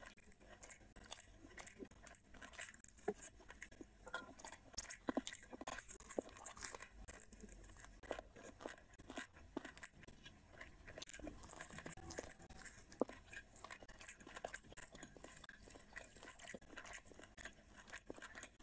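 Close-up eating sounds of someone chewing mouthfuls of rice and curry eaten by hand: a steady run of small crunches and wet clicks.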